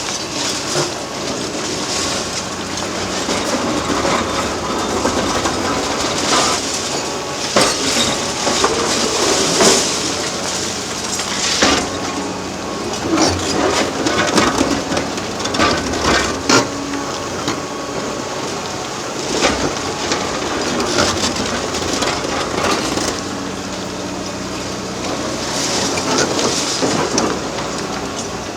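Excavator demolishing reinforced concrete: the diesel engine runs steadily under irregular crunching, cracking and rattling as concrete is broken and rubble falls.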